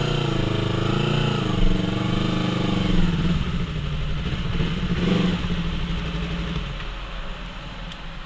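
Motorcycle engine running, its pitch rising and falling with the throttle over the first few seconds and swelling again about five seconds in, then settling and fading away near the end.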